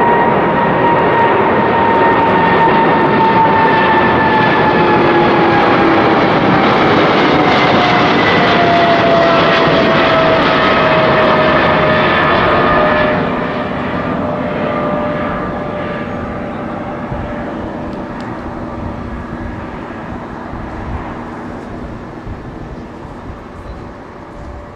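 Jet airliner engines at takeoff: a loud, dense roar with a whine that slowly falls in pitch. After about thirteen seconds it drops in level and fades steadily away.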